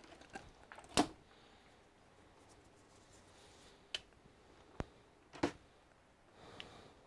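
Scattered sharp clicks and taps of hard plastic and metal parts being handled while an all-in-one computer is taken apart. The loudest comes about a second in, three more follow a few seconds later, and a soft rustle comes near the end.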